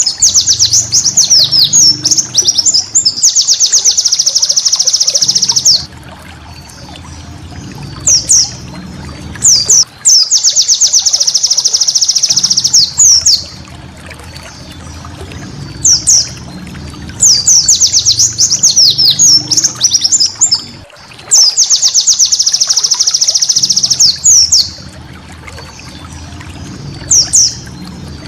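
White-eye (pleci) song: loud, high, rapid runs of trilling notes in phrases a few seconds long, repeated again and again with short pauses between them, in the fast 'tembakan' style used on master recordings for training cage birds.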